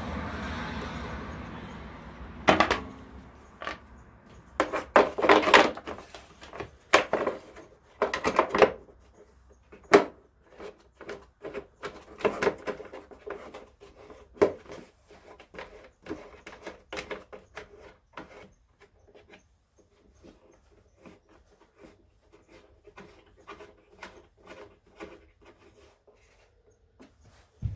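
Irregular clicks, knocks and rattles of hard parts being handled around a lawn tractor engine. A steady noise fades away over the first two seconds, and the knocks come in loud clusters early on before thinning to small, scattered ticks.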